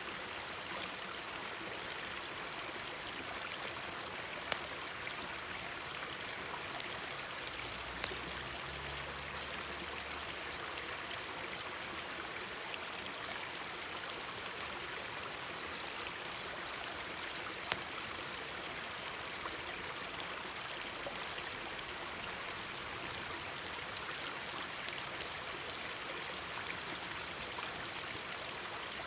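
Mountain stream babbling steadily, with a few sharp pops from a wood campfire scattered through it.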